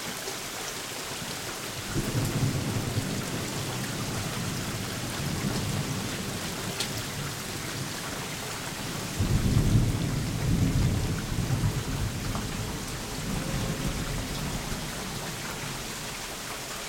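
Rolling thunder over steady, gentle rain. A first rumble starts about two seconds in, and a louder one breaks about nine seconds in and rumbles on for several seconds before fading.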